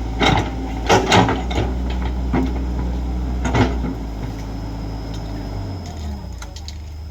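Excavator's diesel engine running steadily, with several sharp clanks and knocks in the first four seconds. The engine eases down about four seconds in and settles lower near the end.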